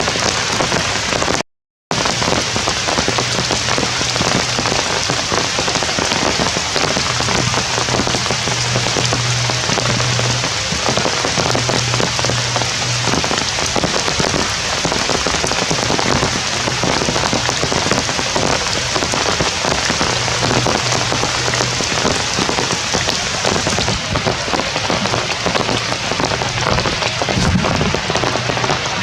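Heavy rain falling steadily, a dense hiss of drops striking surfaces. The sound cuts out for a moment about a second and a half in.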